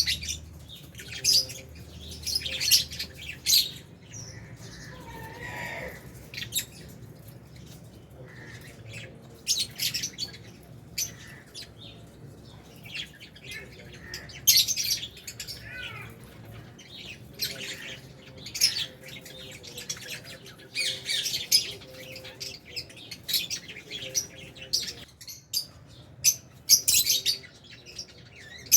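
Lovebirds chirping and squawking in shrill, irregular bursts, with short quieter gaps between.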